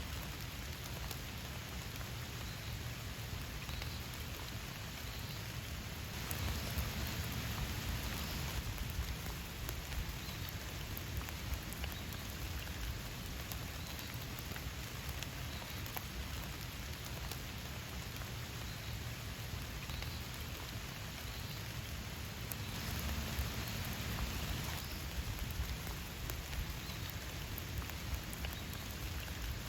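Steady rain falling, the many individual drops ticking on a hard surface. It swells louder for a couple of seconds about six seconds in, and again around twenty-three seconds in.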